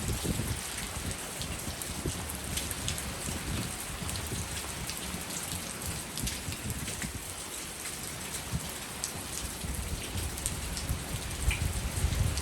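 Steady rain falling in a thunderstorm, with individual drops ticking close by and an uneven low rumble underneath.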